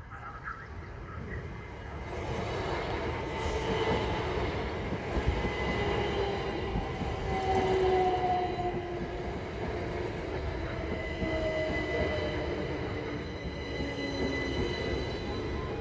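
A train passing over a level crossing: wheels running on the rails, with squealing tones from the wheels. The sound swells about two seconds in and stays loud.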